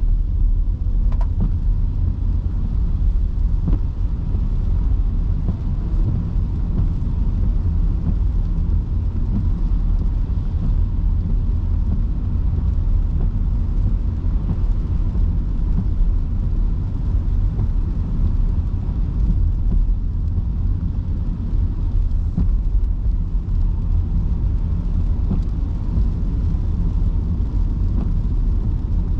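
Steady low rumble of tyres and road from an electric car driving on wet streets in heavy rain, with an even hiss of rain and spray and a few faint ticks.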